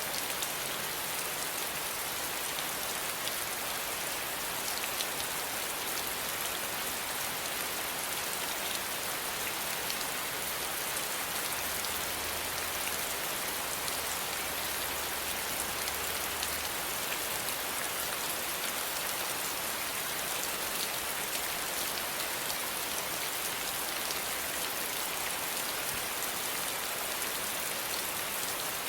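Steady rain falling, an even hiss of drops pattering on a surface with faint scattered drip ticks.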